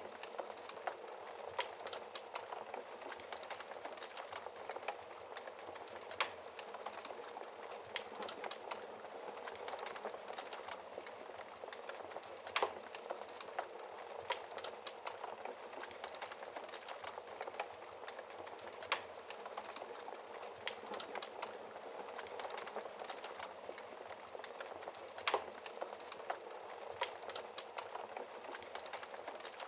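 Wood fire crackling: a steady hiss with constant small crackles and an occasional louder pop every few seconds.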